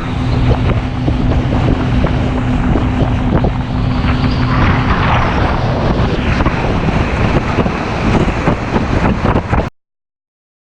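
Go-fast speedboat running at speed: a steady engine drone under heavy wind buffeting on the microphone and the rush of the hull over the water. It cuts off suddenly near the end.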